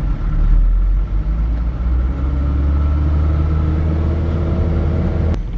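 Truck engine and road noise heard inside the cab while driving: a steady low rumble with faint engine tones. A deeper hum joins about two seconds in and cuts off abruptly with a click near the end.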